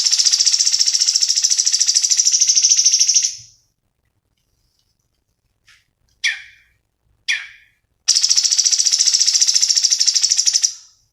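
Cucak cungkok songbird singing: a rapid, high, buzzy trill lasting about three seconds, then a few short sharp chips sliding down in pitch, then a second long trill from about eight seconds in.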